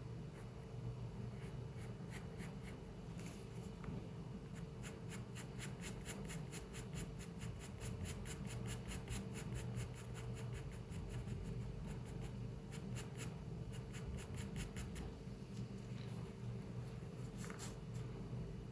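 Pencil scratching on paper in runs of quick repeated strokes, about five a second, with pauses between the runs. A steady low hum from the room runs underneath.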